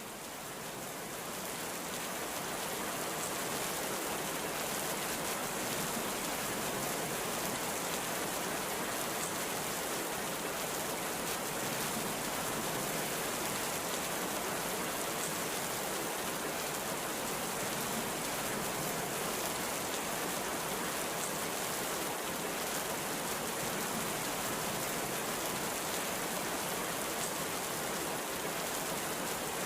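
Heavy rain pouring steadily, a dense even hiss of drops that fades in over the first couple of seconds and then holds level.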